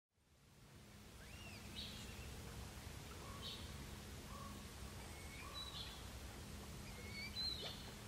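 Faint small-bird calls: short high chirps and brief notes every second or so, over a low, steady outdoor rumble. The sound fades in from silence at the start.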